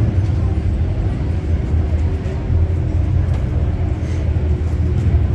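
Steady low rumble of a car engine with road noise.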